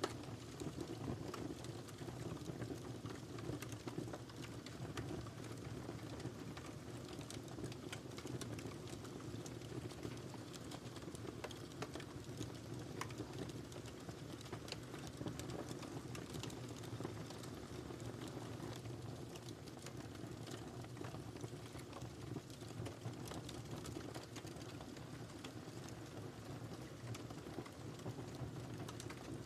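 Wood fire burning in a fireplace: a steady low rumble of flames with many small, irregular crackles and pops throughout.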